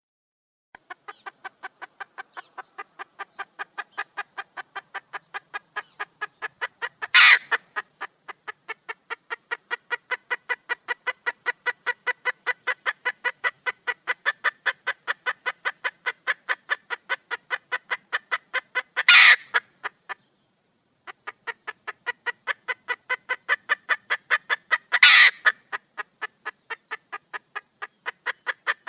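Wild junglefowl hen calling: a fast, even run of clucks, about three or four a second, broken three times by a much louder harsh squawk and once by a short pause. It is the call a hen gives to draw a cock.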